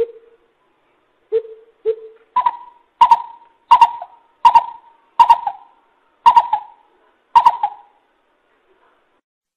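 Greater coucal calling a series of deep hoots, played as a trapping lure call: a few low notes, then about seven higher hoots evenly spaced under a second apart.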